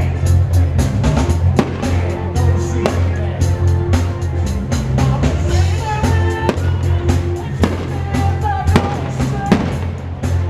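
Fireworks going off in several sharp bangs at irregular intervals over loud music with heavy bass.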